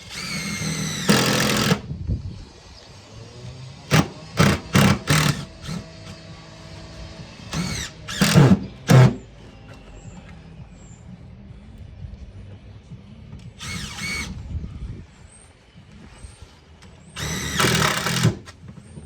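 Power drill driving screws into timber in repeated trigger bursts, each spinning up in pitch: one longer run near the start, then clusters of short quick bursts, and another run near the end.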